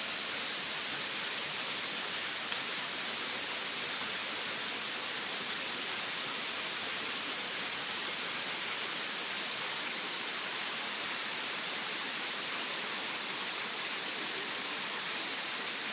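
Waterfall of about 20 metres, a steady rush of falling water heard as a constant hiss, strongest high in pitch.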